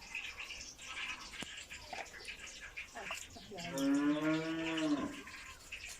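A cow mooing once, a single call of about a second and a half that starts a little past halfway through.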